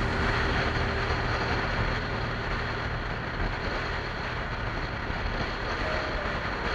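Motorcycle on the move: wind rushing over the microphone, with the engine running steadily underneath.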